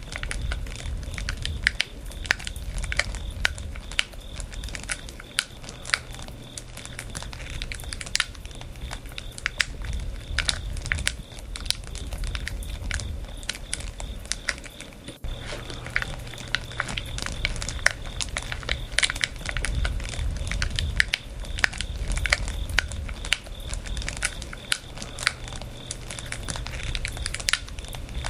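Wood fire burning, the logs crackling and popping in quick irregular snaps over a low rumble of the flames.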